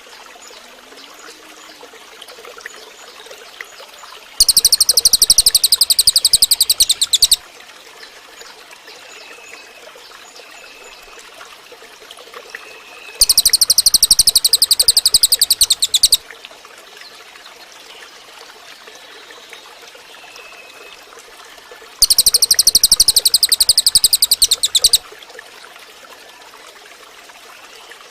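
Cililin bird singing: three loud, very fast, high buzzing trills of about three seconds each, roughly nine seconds apart, with faint short whistles between them.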